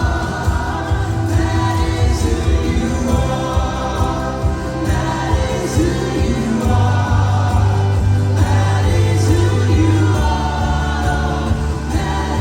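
Choir and congregation singing a gospel worship song over instrumental accompaniment, with a strong, steady bass line.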